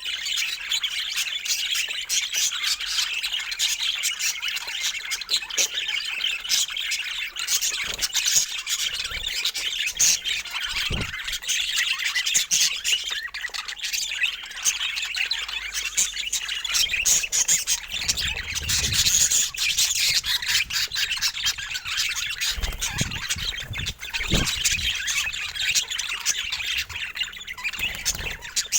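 Budgerigars chattering and squawking continuously in a busy, high-pitched warble of many overlapping calls, with a few faint low thumps now and then.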